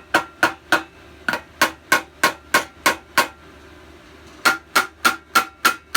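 Rubber mallet tapping on a small engine's carburetor and fuel tank assembly to knock it loose, about three taps a second with a light metallic ring. Two runs of taps, with a pause of about a second in the middle.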